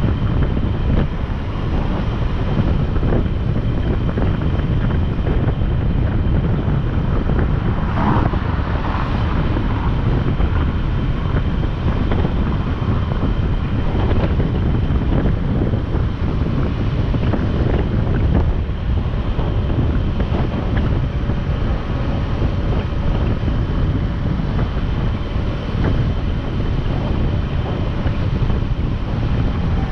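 Motorcycle riding at speed: wind rushing over the camera microphone together with the engine and road noise, steady throughout.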